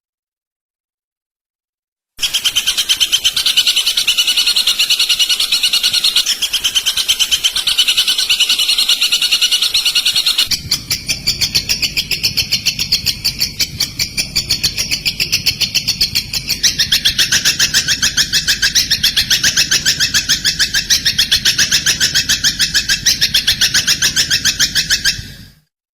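Recorded songbird song used as a tutor track for training white-rumped shamas: fast trills of rapidly repeated notes that change to a new phrase twice, with a lower, fuller trill in the last part, over a faint low hum from about ten seconds in. It starts about two seconds in and cuts off just before the end.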